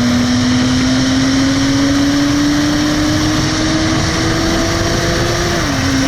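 BMW Z4 Coupé 3.0si's straight-six through a Reuter Motorsport aftermarket exhaust, pulling under acceleration with its note climbing slowly, then dropping quickly near the end as the automatic gearbox shifts up.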